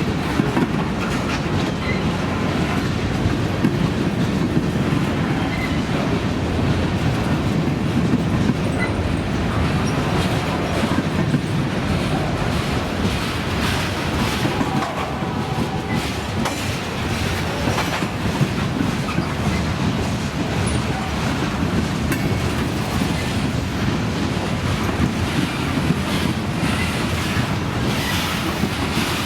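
Freight train rolling past with a steady rumble and the clickety-clack of its wheels over the rail joints, with a faint wheel squeal about halfway through.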